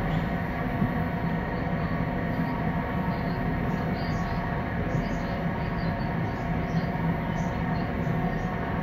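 Electric passenger train running steadily, heard from inside the carriage: a constant rumble and hum with a few faint, brief high-pitched squeaks.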